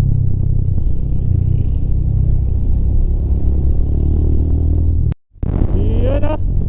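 Rusi Classic 250 motorcycle running at road speed, a steady low rumble of engine and wind. The sound cuts out briefly about five seconds in, then a short rising tone follows.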